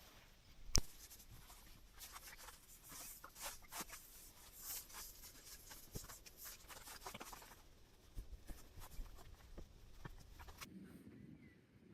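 Light rustling and small clicks of something being handled, with one sharp knock about a second in; the sound cuts off abruptly near the end.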